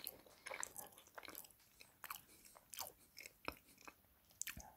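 Faint, irregular mouth clicks and smacks of someone chewing a bite of salted caramel and chocolate tart with a pastry base.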